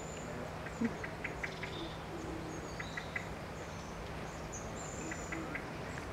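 Small birds calling: short high whistles and little groups of quick chirps, over a steady outdoor hiss. A short soft knock stands out just under a second in.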